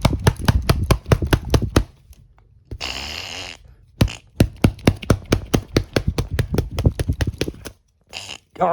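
Rapid sharp tapping or knocking, about six strikes a second, broken about three seconds in by a one-second burst of whirring, hissing noise and then starting again: workshop sounds of a robot being built.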